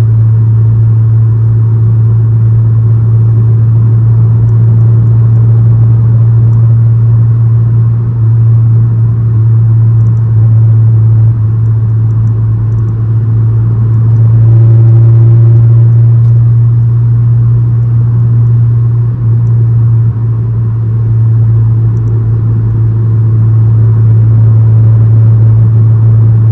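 Ninth-generation Honda Civic Si's 2.4-litre four-cylinder with an aftermarket downpipe and exhaust, running at a steady engine speed with a loud, constant low drone.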